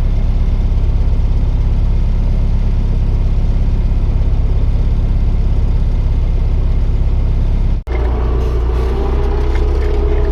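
Tractor engine running steadily under load, a deep even drone. About eight seconds in it cuts off abruptly and a different engine sound with higher steady tones takes over.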